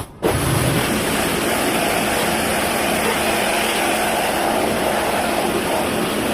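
A loud, steady mechanical rushing noise that starts abruptly a moment in and holds level throughout.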